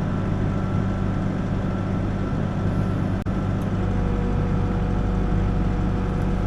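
Backhoe's diesel engine running steadily, heard from the operator's seat, with a momentary drop-out about three seconds in.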